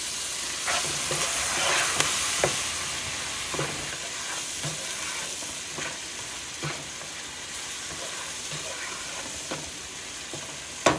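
Onion, tomato and spice masala sizzling in oil in a pan, with a little water just added, while a spoon stirs it, scraping and knocking against the pan about once a second.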